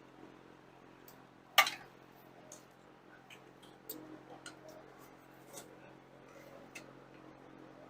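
Scattered small metallic clicks and clinks of hand tools at work, with one sharp clink about a second and a half in, over a steady faint hum.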